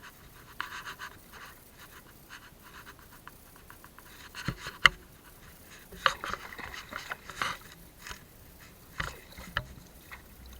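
Irregular splashing and scraping as a fishing net is handled in the water, with scattered sharp knocks; one knock a little before five seconds in is the loudest.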